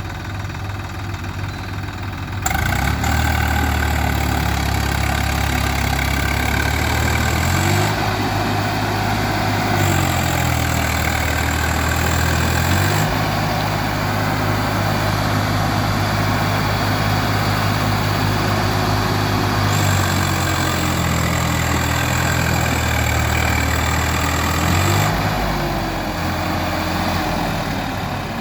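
Diesel engine revving under load. About two and a half seconds in it is opened up hard, then its speed steps down and back up again several times before easing off near the end.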